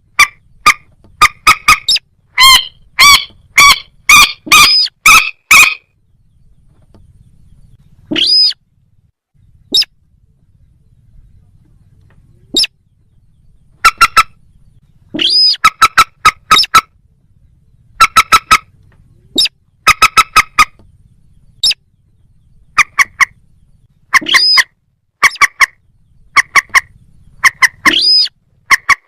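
Rail-family waterbird calls (common moorhen or crake): rapid series of short, loud, harsh clucking notes, with a few longer upward-sweeping squawks mixed in and a pause of a couple of seconds after the first run.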